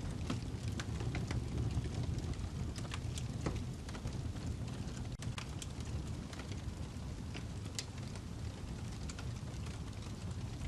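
Wood fire burning in a fireplace: a steady low rumble of flames with many irregular sharp crackles and pops from the burning log.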